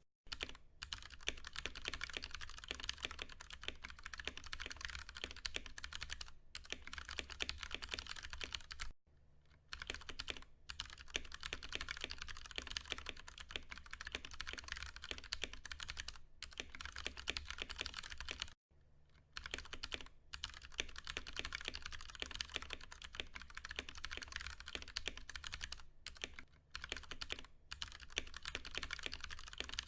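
Continuous fast typing on a Ducky One 2 Mini mechanical keyboard with Cherry MX Brown switches: a dense run of key clacks. It stops briefly just after the start, at about 9 seconds and at about 18 seconds, over a faint steady low hum.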